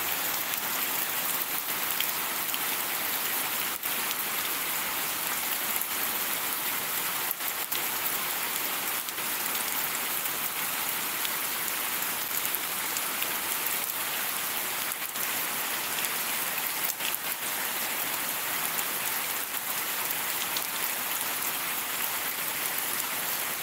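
Steady rain falling on a shallow muddy pool and wet concrete: an even hiss of rain with scattered sharper ticks of single drops.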